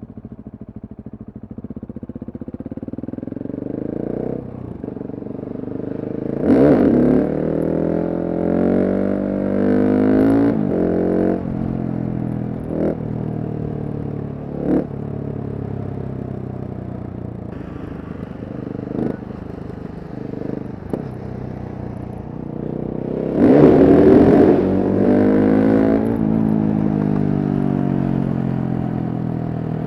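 Single-cylinder Husqvarna supermoto engine under way, pulling hard and rising in pitch through the gears twice, about 6 and 23 seconds in, with short breaks at the shifts. Between the pulls it runs at a steadier pitch, with a few brief sharp cracks.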